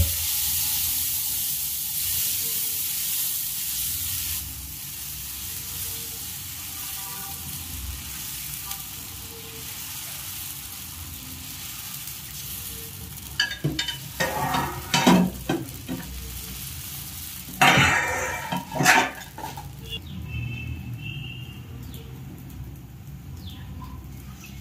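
Moong dal dosa batter sizzling on a hot tawa. The hiss is loudest for the first few seconds as the batter is poured, then settles to a quieter, steady sizzle. Partway through come two short spells of metal utensil scraping and knocking against the pan.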